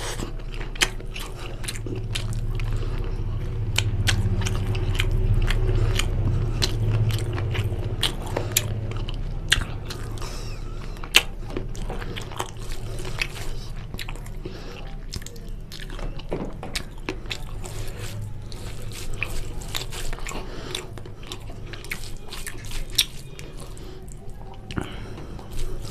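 Close-miked chewing and biting of chicken curry with rice, with frequent sharp mouth clicks and smacks over a low steady hum.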